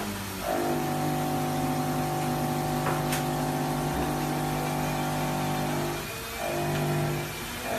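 A vehicle engine running at steady high revs, with a constant pitch. It eases off briefly twice near the end and comes back to the same note.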